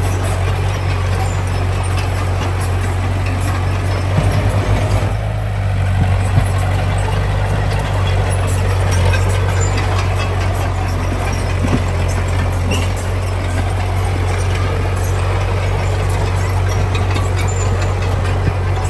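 Heavy diesel construction machinery running steadily, a deep continuous engine drone with scattered clanks and rattles, a cluster of knocks about four to six seconds in.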